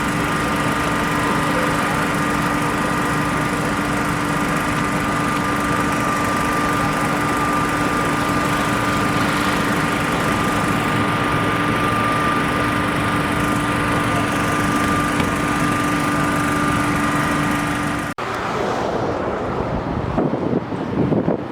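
Engine running steadily, a constant droning hum with a few fixed tones over the noise. About eighteen seconds in it cuts off abruptly, replaced by unsteady, gusty noise.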